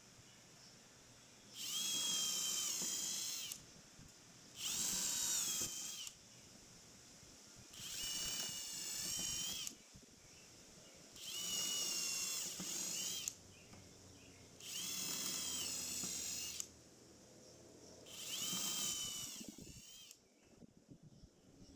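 Power drill running in six short bursts of one to two seconds each, a few seconds apart, its motor whine rising at the start of each run and holding steady.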